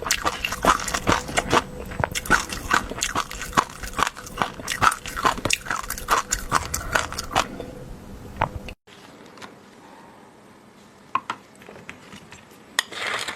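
Close-miked eating: a quick, steady run of chewing clicks from the mouth, about three a second. About two-thirds of the way through the sound cuts off abruptly and turns much quieter, leaving only a few scattered clicks.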